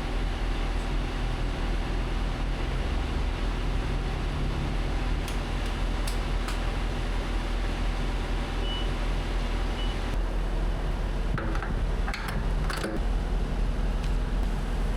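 Semi truck running, a steady low engine rumble with a constant mechanical hum, and a few faint clicks about twelve seconds in.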